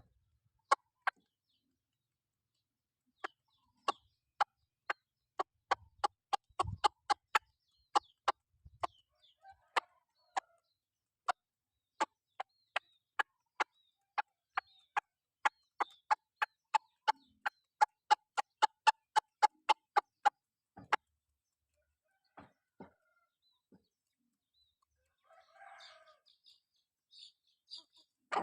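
Chickens clucking: a long run of short, sharp clucks, two to three a second, that thins out after about twenty seconds into a few fainter calls.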